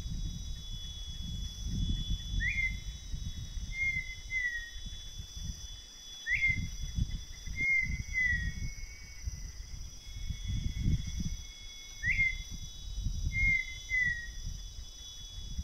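A bird whistling a repeated phrase three times: a quick rising note, then about a second later two short falling whistles. Behind it are a steady high-pitched buzz of insects and a gusting low rumble.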